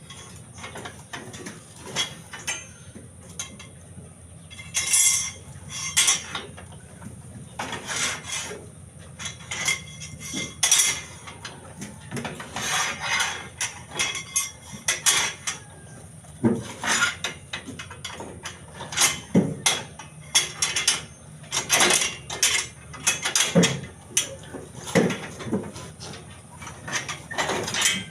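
Steel reinforcing bars clinking and knocking at irregular intervals as they are handled and bent into stirrup rings for a concrete column.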